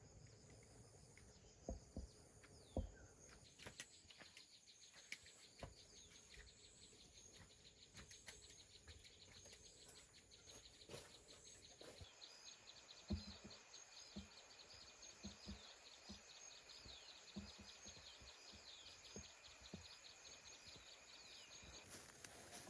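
Faint outdoor ambience: steady high-pitched insect drone and rapid repeated chirping, with scattered light knocks.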